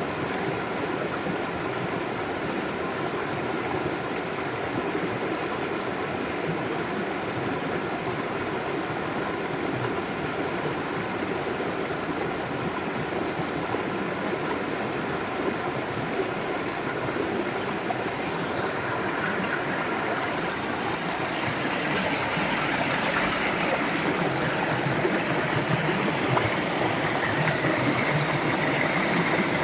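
A river flowing over rocks, a steady rushing with gurgling. It swells a little louder and brighter about two-thirds of the way in.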